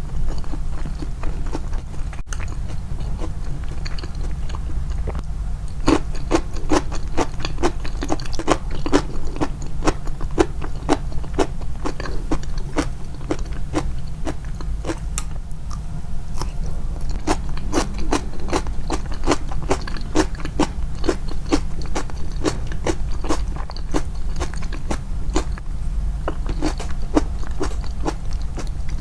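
Close-miked chewing of crunchy rice-bran pickled vegetables (nukazuke), crisp crunches coming several a second. They start about six seconds in and run on with a short lull midway, over a steady low hum.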